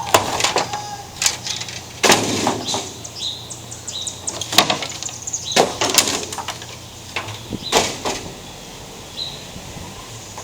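Sledgehammer blows smashing a large television set, a string of heavy, irregularly spaced hits with cracking and rattling of the casing and debris; the set is sturdy and holding up to the blows.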